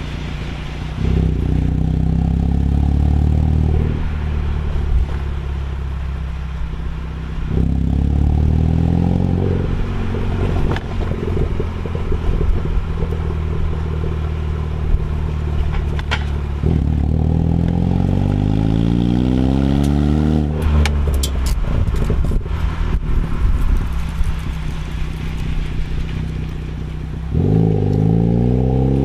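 Ford Focus ST engine through an MBRP aftermarket exhaust, revving up four times, each rise lasting two to four seconds, with steadier running between. Several sharp crackles come about two-thirds of the way through.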